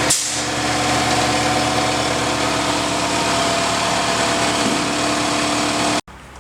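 A machine running steadily with a hum of a few fixed tones, with a brief tick just after the start; it cuts off abruptly near the end.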